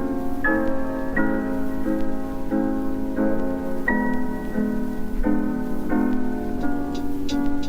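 Background music on a piano-like keyboard: sustained chords changing in an even rhythm, a little faster than once a second.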